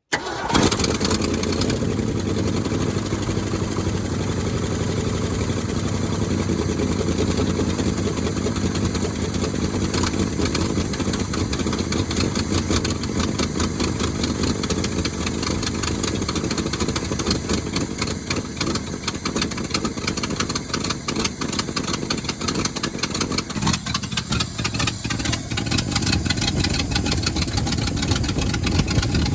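1971 Ford Highboy truck engine catching almost at once on a below-zero cold start, boosted by a fresh battery, then running steadily and loudly. Its sound shifts slightly about three-quarters of the way through.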